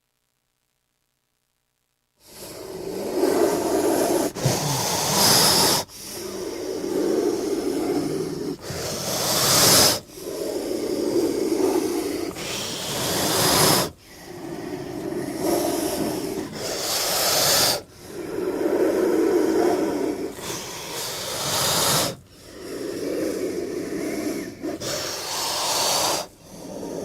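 King cobra hissing: a low, growl-like breathy hiss repeated about every four seconds, each ending in a sharper high hiss. It starts about two seconds in, after silence.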